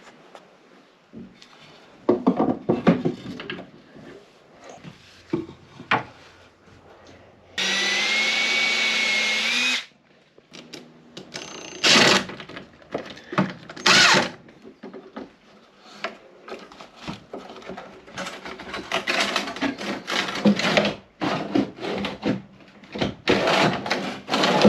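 Power drill running: one steady run of about two seconds with a whine that rises slightly just before it stops, then two brief bursts a couple of seconds apart. Knocks and rustling from handling wood and tools fill the gaps.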